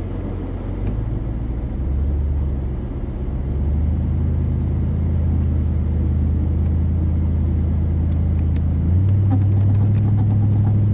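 Four-wheel-drive vehicle's engine pulling in two-wheel drive toward a mud hole, its low steady note stepping up in pitch and getting louder about two seconds in, again a second and a half later, and once more near the end.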